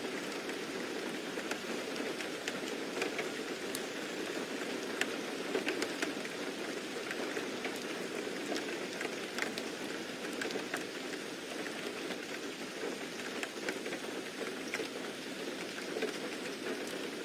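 Steady rain falling, with a constant hiss and many small scattered drip and patter ticks.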